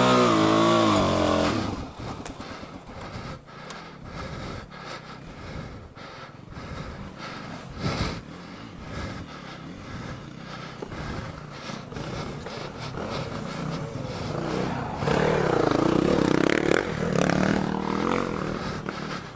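Suzuki DR-Z400 single-cylinder dirt bike engine running, then cutting off suddenly a couple of seconds in. Scraping and clattering follow, with one sharp knock partway through. Near the end a motorcycle engine revs up and down.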